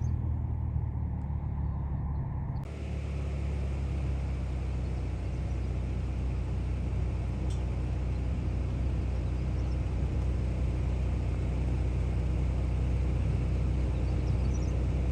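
Low steady rumble of the parked chase vehicle's engine idling. A little under three seconds in, the sound suddenly opens up into a steady rushing wind noise over the rumble.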